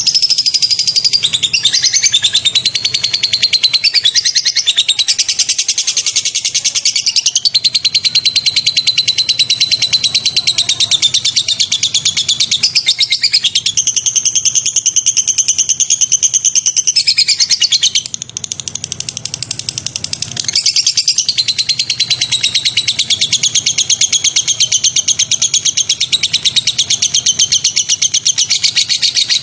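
White-rumped shama singing a continuous string of fast, high-pitched rapid-fire phrases, with a brief softer stretch about two-thirds of the way through.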